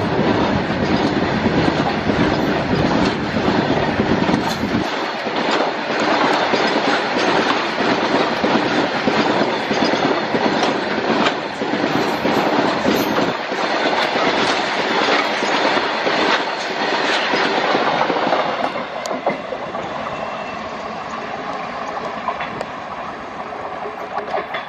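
Train passing close by, its wheels clicking over the rail joints in a running clickety-clack. A deep rumble drops away about five seconds in, and the sound thins and fades over the last six seconds.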